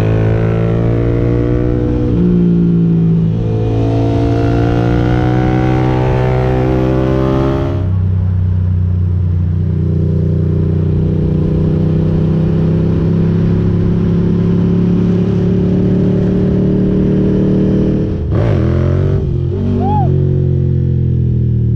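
Ducati GT1000's air-cooled L-twin running through Termignoni exhaust pipes while riding: revs rise and fall for the first several seconds, then hold steady at a cruise for about ten seconds, with a brief change in revs near the end.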